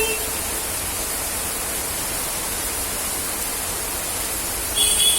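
Steady hiss of falling rain. Near the end a loud, high-pitched tone starts abruptly.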